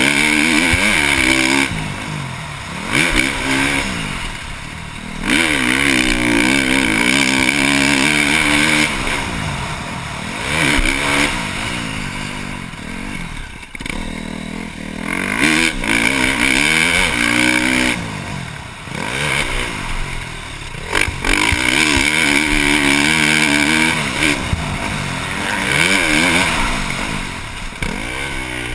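2012 KTM 350 SX-F four-stroke single-cylinder motocross bike with a Yoshimura exhaust, ridden on a track: the engine revs up hard and backs off again and again, its pitch climbing through each pull and falling away between them.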